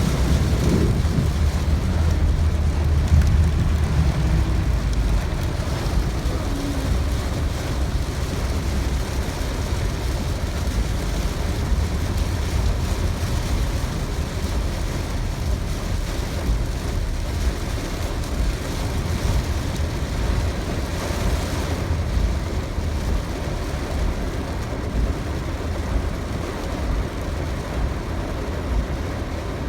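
Heavy rain coming down, with runoff water rushing, as a steady loud noise with a deep rumble underneath.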